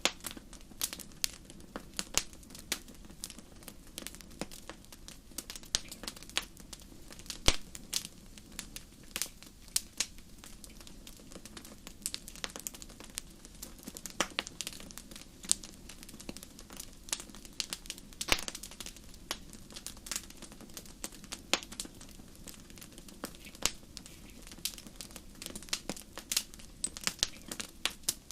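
Wood fire burning in a fireplace: irregular sharp crackles and pops, several a second, over a steady low background of the flames.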